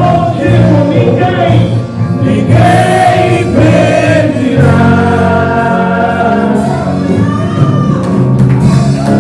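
Gospel worship song: a group of singers in choir-like unison over a steady instrumental accompaniment.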